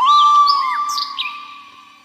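Background music: a flute holds a note while a few short bird chirps sound over it, then the music fades out.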